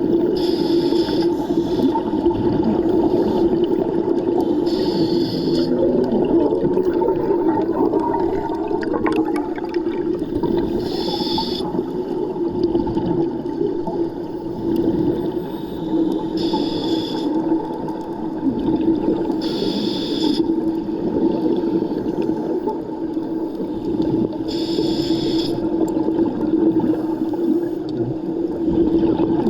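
Underwater sound of a scuba diver breathing: a short hiss from the regulator about every three to six seconds, over a steady hum.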